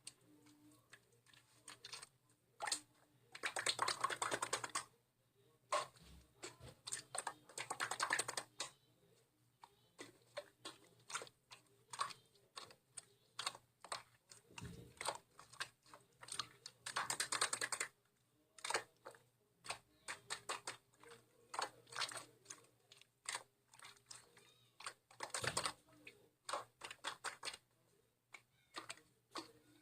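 Quick, irregular small clicks and taps that keep going, bunching into dense flurries of about a second four times.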